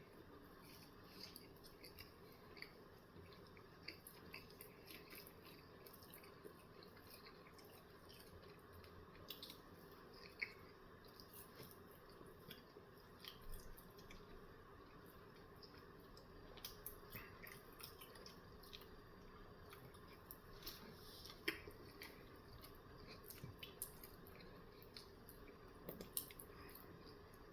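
Faint, close chewing and wet mouth sounds from a person eating a sausage, egg and cheese bagel sandwich: soft irregular clicks and squishes over near silence, a few a little louder than the rest.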